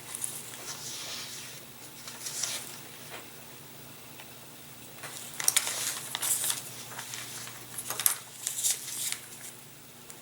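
Fingers picking and scratching at the backing sheet of pre-cut plastic covering film, trying to find an edge to peel it off, in irregular crinkling bursts; the backing will not come away yet. A faint steady low hum runs underneath.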